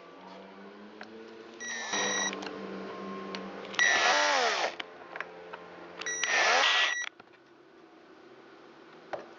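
Small cordless electric screwdriver or drill whirring in three short runs of under a second each, its motor pitch falling as each run stops, driving in the chainsaw's ignition coil screws.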